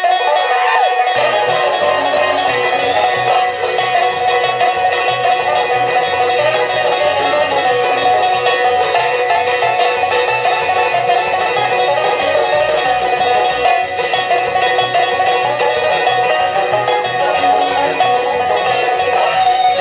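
Live bluegrass band playing a fast instrumental, with rapid banjo picking over other plucked strings; the bass comes in about a second in.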